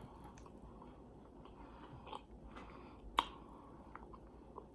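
A person chewing food close to the microphone: soft wet mouth sounds, with a few short sharp clicks, the loudest about three seconds in.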